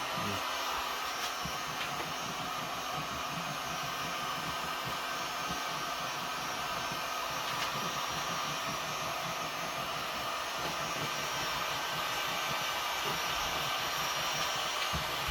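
Electric heat gun running steadily, its fan blowing a constant rush of hot air.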